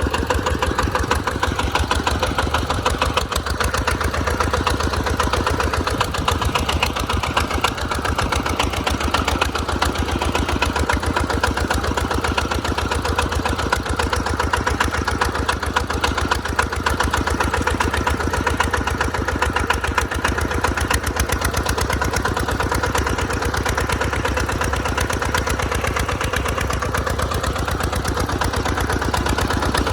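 Tractor engine running steadily while plowing in mud, with a fast, even firing pulse.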